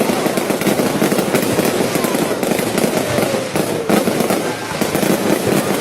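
Fireworks going off in a dense, unbroken rapid crackle of overlapping pops.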